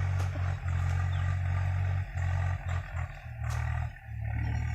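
Tractor engine running with a steady low drone, which dips briefly several times around the middle.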